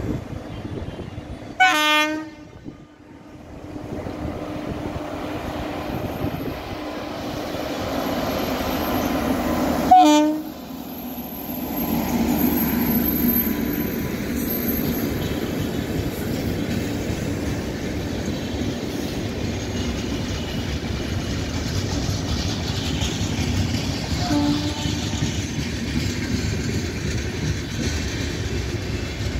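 Indian Railways express train: the electric locomotive sounds two short horn blasts as it approaches, then the coaches pass at speed with a steady rumble and wheel clatter on the rails. A fainter short horn sounds later.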